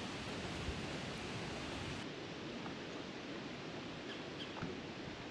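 Faint steady outdoor background hiss, with a few light clicks; the top of its range drops away about two seconds in.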